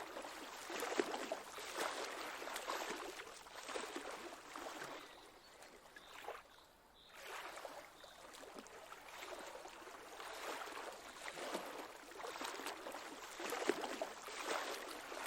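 Faint, gentle lake water lapping and sloshing, rising and falling in soft swells every second or two, dropping away briefly about halfway through.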